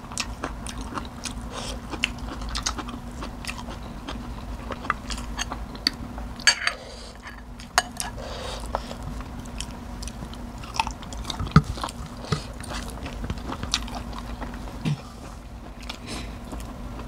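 People chewing and biting food close to the microphone: mouth noises with many scattered sharp clicks, over a steady low hum.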